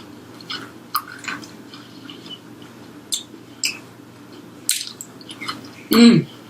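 Close-up chewing of crispy fried chicken: scattered crunches and wet mouth clicks. Near the end comes a short, loud "mmm" of the voice, falling in pitch.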